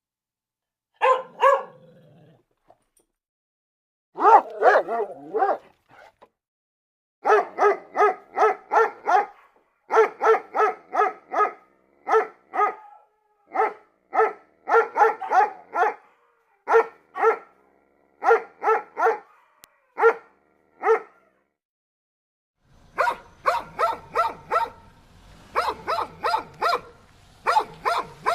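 A dog barking repeatedly in quick runs of short, sharp barks, about three or four a second, with pauses of a second or two between runs and a longer pause of a few seconds.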